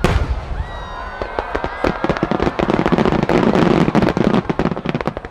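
A fireworks shell bursts loudly at the start, followed by a dense, continuous crackle of many small pops from crackling stars that thins out near the end.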